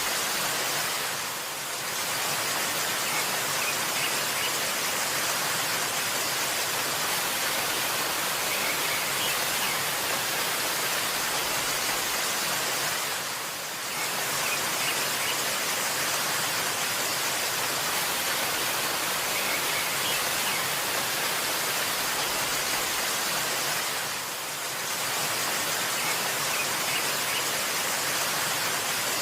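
Steady hissing rush of a waterfall, dipping briefly three times: about a second in, about halfway through, and near the end. A few faint bird chirps sound above it.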